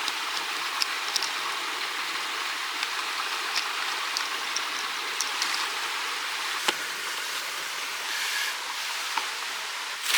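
Mountain stream rushing steadily, with scattered small clicks and ticks over it and one sharper click about two-thirds of the way through.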